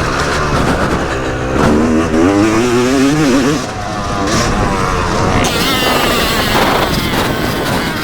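Yamaha YZ250 two-stroke motocross engine revving up and down as it is ridden, with a short drop in revs about three and a half seconds in.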